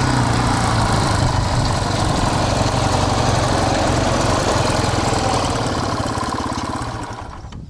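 Motorcycle engine running steadily, then fading away near the end.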